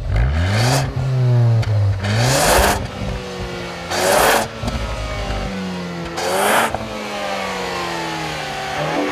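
Ford Focus ST's turbocharged 2.0-litre EcoBoost four-cylinder revving hard under acceleration. Its pitch climbs and then drops back several times as gears are changed, with about four short bursts of rushing noise along the way.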